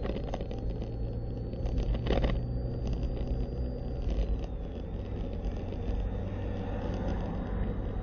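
A car driving, with steady engine and road rumble heard from inside the cabin, and a brief knock about two seconds in.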